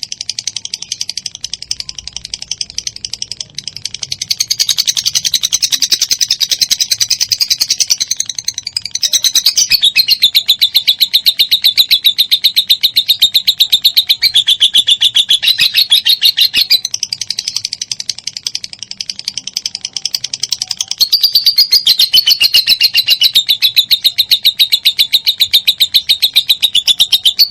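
Lovebird 'ngekek': a long, unbroken, rapid shrill chattering trill of fast repeated notes. It is softer for the first few seconds, then grows louder, and swells again near the end.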